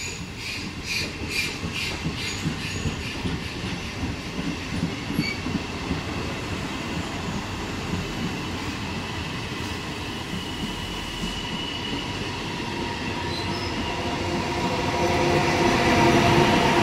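Passenger coaches of a regional train pushed by an FS E464 electric locomotive rolling past on the track, wheels clicking over rail joints with some squealing. Near the end the locomotive's whine of several steady tones grows louder as it draws near.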